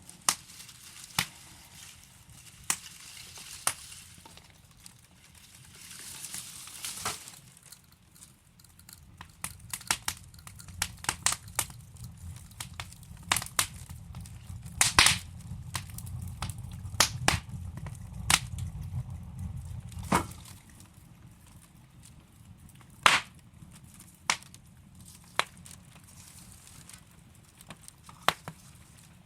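Wood fire crackling in a fireplace: irregular sharp pops and snaps over a soft hiss, with a low rumble of the flames swelling for several seconds in the middle.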